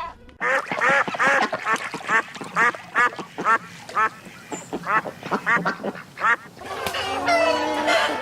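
Ducks quacking: a run of short, evenly repeated quacks, about two a second. Near the end the quacking gives way to softer chatter.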